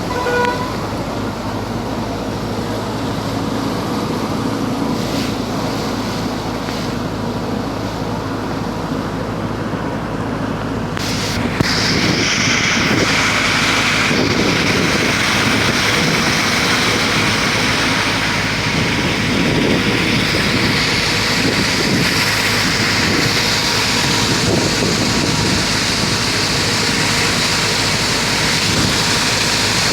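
Heavy rain pouring in a downpour, a steady hiss that grows louder and brighter about twelve seconds in as the rain comes down harder. A steady low hum runs underneath.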